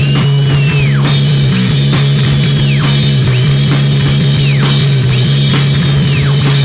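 Rock music: a driving drum beat under a held low bass note, with a high note that is held and then drops sharply in pitch, over and over.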